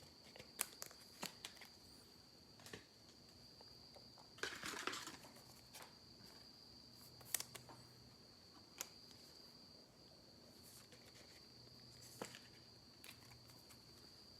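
Quiet handling of sports card packs and cards: a few sharp clicks and a short crinkly rustle about four and a half seconds in, over a steady high-pitched tone.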